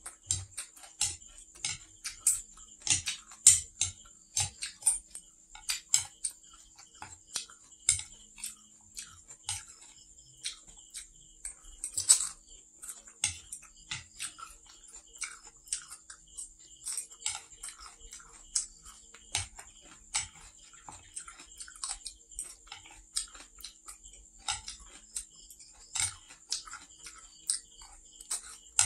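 Close-up chewing of stir-fried noodles and crunchy water spinach stems, mixed with chopsticks clicking against the plate: a steady run of short, crisp clicks and crunches, a few of them louder.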